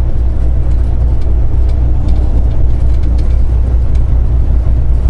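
Steady low drone of a semi truck's engine heard from inside the cab, running evenly with no change.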